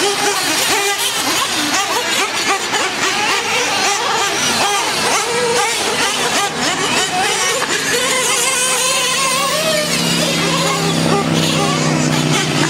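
Several nitro RC monster truck engines racing, high-pitched whines overlapping and rising and falling as the trucks throttle up and back off. From about ten seconds in, one engine holds a steady note under the others.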